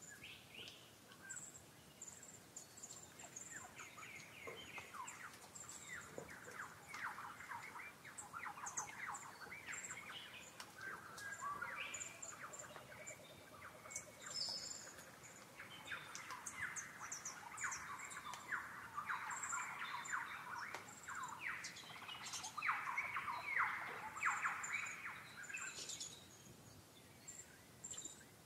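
Wild birds calling: dense runs of rapid, short chattering notes, busiest through the middle and loudest a little past it, over thin high chirps throughout.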